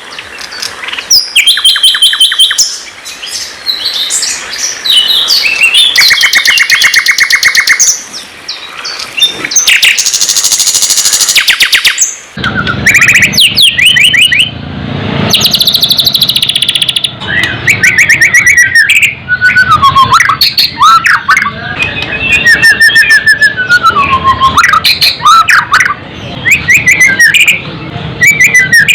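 Songbird singing: rapid repeated trills and varied whistled phrases that glide up and down. About twelve seconds in the recording changes, with a lower background noise appearing under the song.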